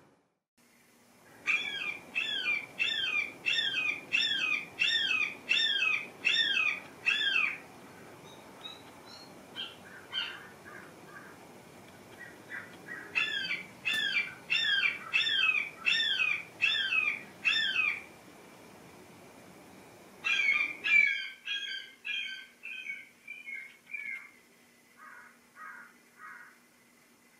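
A bird calling in rapid series of short, sharp notes that bend up and down, about three a second, in three bursts. In the last burst the notes drop in pitch and fade away.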